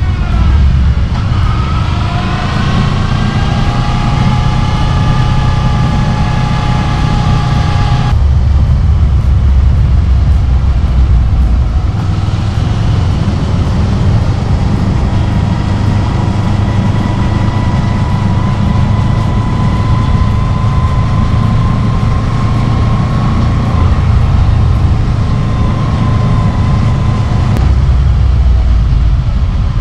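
Honda VFR800 Interceptor's V4 engine running while riding. It rises in pitch over the first couple of seconds and holds steady. About eight seconds in it changes abruptly, then runs on at a steady, slowly climbing pitch.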